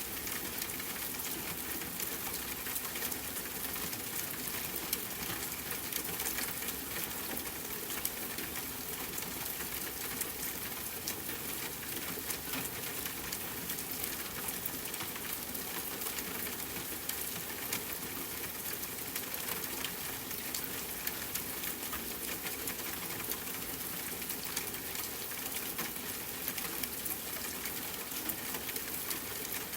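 Steady rain hiss mixed with a campfire's crackling: many small sharp ticks and pops scattered through an even wash of falling rain.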